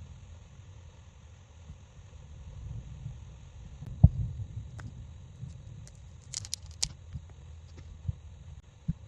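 Scattered clicks and knocks of a phone and repair tools being handled on a workbench, over a low rumble, with one sharp knock about four seconds in and a quick run of light clicks a little later.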